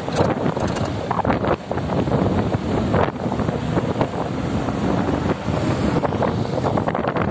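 Wind buffeting the microphone, with the rumble of a moving vehicle underneath.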